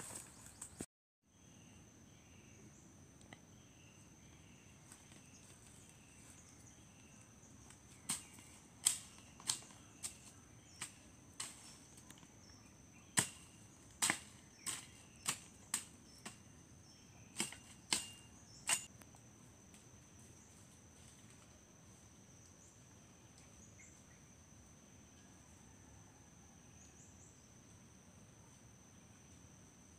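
Insects, such as crickets, give a steady high-pitched trill. In the middle stretch a string of about a dozen sharp, irregular clicks sounds over it.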